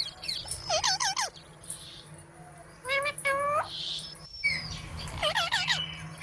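Green parrot calling and chattering in three short bouts of warbling, pitch-bending notes.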